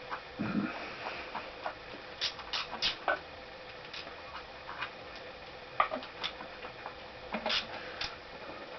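Irregular light metal clicks and clinks of hand tools and engine parts being handled during engine disassembly, with a soft low thump about half a second in.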